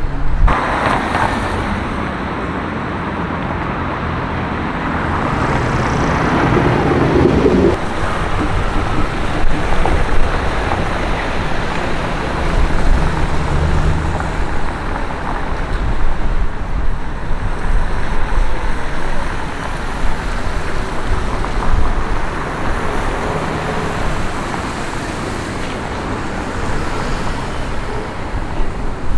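City street traffic: cars and other vehicles driving past, their engine and tyre noise rising and falling, with one louder vehicle sound stopping sharply several seconds in.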